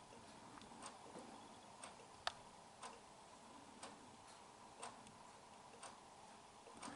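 A clock ticking faintly, once a second, with one louder, sharper click about two seconds in.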